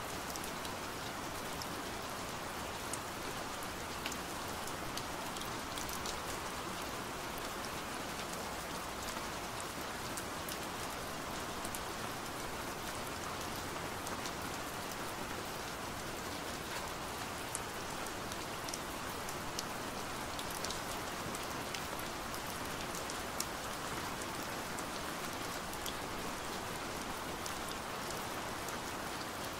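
Steady rain falling on a window pane: an even hiss of rain with scattered sharp drop ticks.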